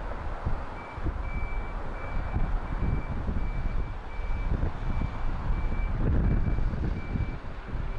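Strong wind buffeting the microphone, with a high electronic beep repeating at an even pace of about one and a half beeps a second, starting about a second in.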